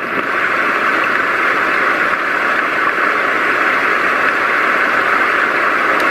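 Roffie white noise machine playing its rain track, a steady hiss like rain falling on leaves, from the machine's small speaker. Near the end a click, and the sound switches to a lower, duller noise.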